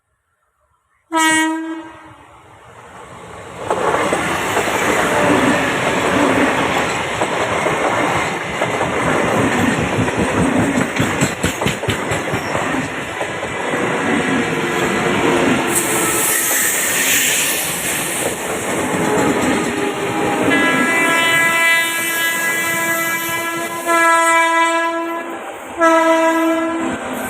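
Indian Railways train passing close by with loud wheel clatter on the rails, preceded by a short horn blast about a second in. The horn sounds again for several seconds near the end, twice, over the rolling noise.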